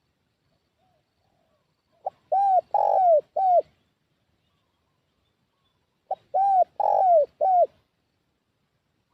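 Spotted dove (tekukur) cooing: two phrases about four seconds apart, each a short clipped note followed by three coos, the middle one longest, each coo dropping in pitch at its end.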